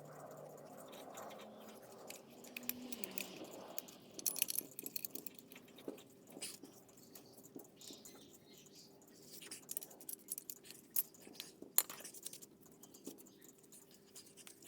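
Scattered small clicks and light knocks of handling, over a faint steady hum.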